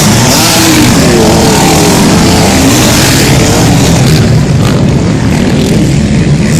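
Motocross motorcycle engines racing on the track, loud and close, their pitch rising and falling as riders work the throttle through the course.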